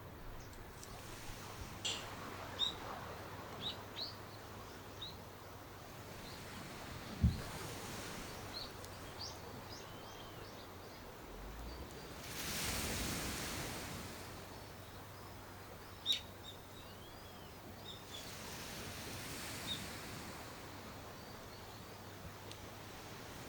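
Outdoor ambience with birds giving short, scattered chirps, a low thump about seven seconds in, and a swell of rushing noise about halfway through.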